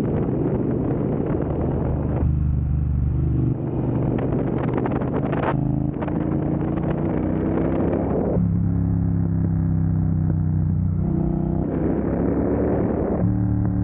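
2022 Triumph Bonneville Speedmaster's 1200 cc parallel-twin engine running through a Dr. Jekill & Mr. Hyde valved exhaust. The engine note climbs slowly in pitch through the middle, drops suddenly about eight seconds in, and shifts again twice near the end.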